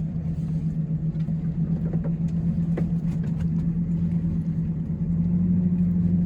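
Vehicle engine running at a steady speed with a constant low hum, growing slightly louder near the end.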